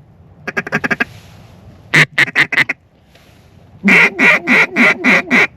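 Duck quacking in three runs: a quick string of short quacks about half a second in, then four loud quacks around two seconds, then six loud quacks near the end.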